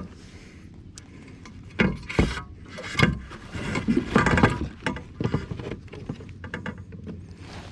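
A hooked bass being fought and brought to a kayak: irregular splashing and knocks, loudest about two seconds in, at three seconds and around four seconds.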